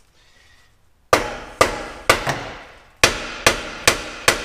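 A hammer striking a wedged metal exhaust pipe, about eight blows starting about a second in, each ringing out briefly.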